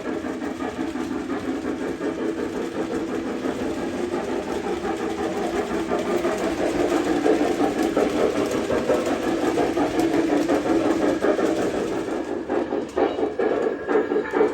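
O scale model train running on three-rail tubular track: a steady rumble of motor and wheels with fine clicking, and a few sharper clicks near the end.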